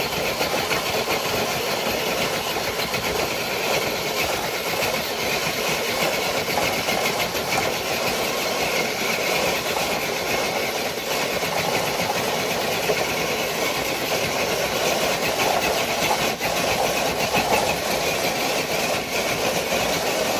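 Electric-powered scale RC crawler truck straining to drag a dead-weight pull sled, its motor and geartrain whining steadily under load.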